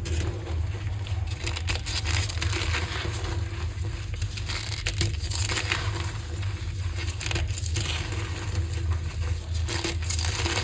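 Green-dyed gym chalk being crushed by hand: a continuous, irregular crunching and crackling over a low steady hum.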